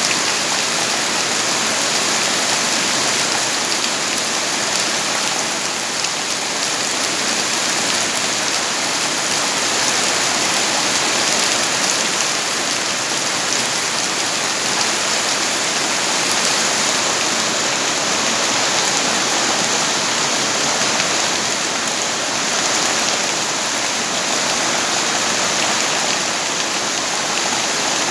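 Steady heavy rain falling, a dense even hiss of drops on surfaces with no let-up or breaks.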